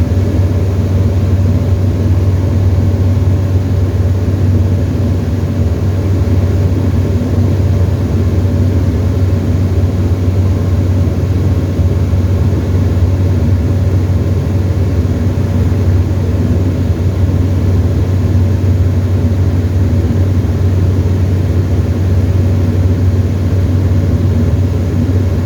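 Steady, loud drone of a Tecnam ultralight's piston engine and propeller heard from inside the cockpit, holding an even power setting throughout.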